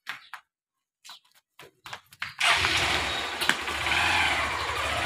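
Motorcycle engine running steadily, coming in suddenly about two and a half seconds in after a few short clicks.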